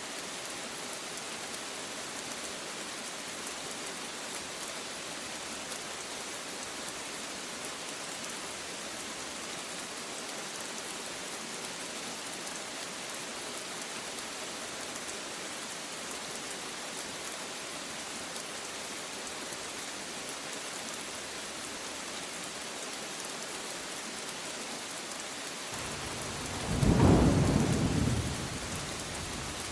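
Steady rain falling. Near the end a single roll of thunder swells up and dies away over about three seconds.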